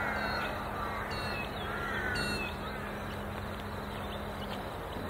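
Birds calling: several short, falling calls, clustered in the first half, over a steady low hum that stops near the end.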